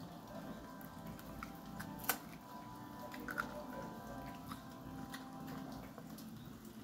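A person chewing and biting roast chicken breast held in the fingers, with small wet clicks and smacks of the mouth; a sharper click comes about two seconds in.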